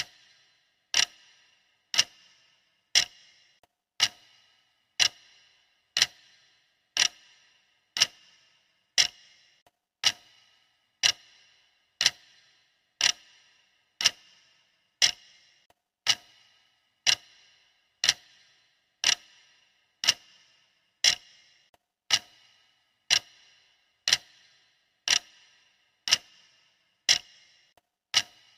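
Clock ticking steadily, one sharp tick a second, each with a brief ring: the consistent ticking track of a countdown timer.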